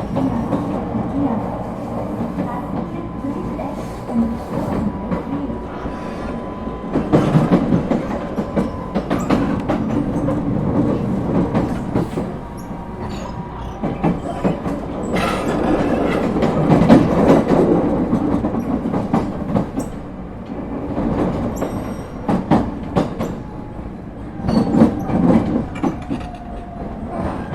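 Running sound inside an ET127 series electric multiple unit, with a Toyo IGBT-VVVF drive: the wheels rumble and clatter over rail joints. A steady inverter whine sounds for the first several seconds, and near the end a lower whine falls in pitch.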